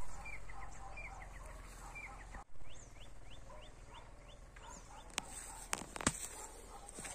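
Birds calling outdoors: a string of short repeated chirps, falling notes in the first couple of seconds and then quicker rising ones, about two a second, over a low steady rumble. A few sharp clicks come near the end.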